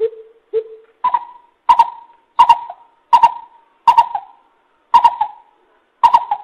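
Coucal calling in a series of short hoots, about one every 0.7 seconds. The first two are lower; the rest are higher and louder.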